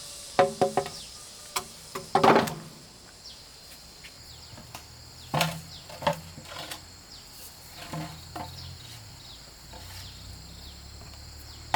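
Wood or bamboo knocked and clattered in a series of sharp, irregular knocks, the loudest about two seconds in, over a steady high drone of insects.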